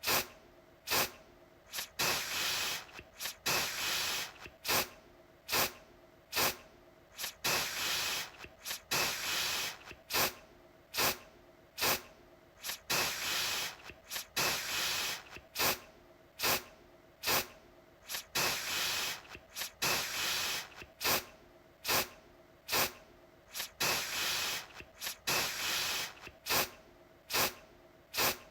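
Aerosol deodorant can spraying in short repeated bursts of hiss, about one a second, each starting with a sharp click.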